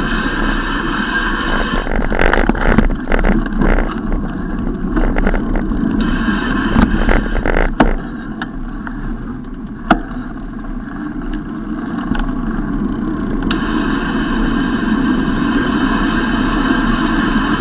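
Riding noise on a bicycle ride: a steady rumble of wind and tyres on the road, with a run of knocks and rattles for a few seconds and one sharp click near the middle.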